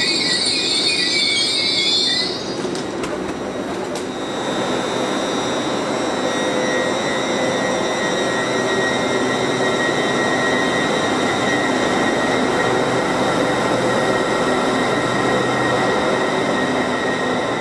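LNER Azuma (Class 801) electric train pulling out along the platform: a high wheel squeal for the first two seconds, then the steady whine of its traction equipment over the rumble of the coaches rolling past.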